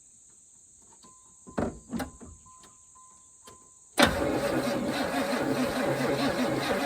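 A faint intermittent beeping and a few clicks with the key on, then about four seconds in the 1992 Chevrolet Caprice wagon's small-block V8 is suddenly cranked over by the starter and keeps going loud and steady.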